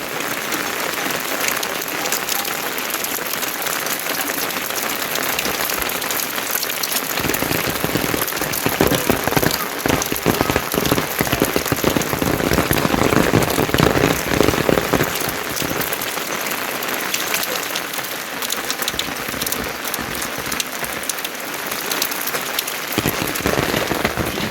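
Steady rain pattering on a surface, a dense hiss of fine drops that grows a little heavier in the middle.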